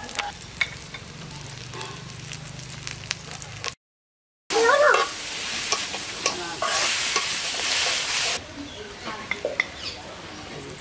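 Sliced onions and garlic sizzling in oil in a metal karahi, with a metal spatula scraping and clicking against the pan as it stirs. The sound drops out briefly about a third of the way through, then returns with louder sizzling for a few seconds.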